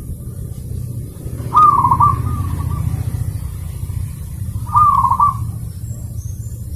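Zebra dove (perkutut) cooing: two short, rapidly trilled coo phrases about three seconds apart, over a steady low rumble. Faint high chirps near the end.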